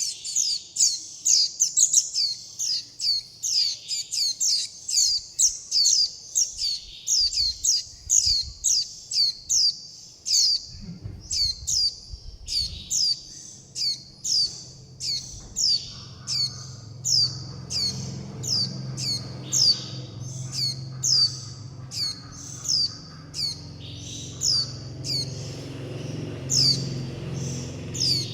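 Fledgling white-eye (vành khuyên) calling for its parent and begging for food: short, high calls, each sweeping downward, repeated about twice a second without a break. A low hum comes in underneath about halfway through.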